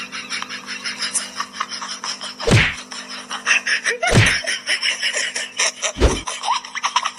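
Three heavy thumps, a little under two seconds apart, over background music.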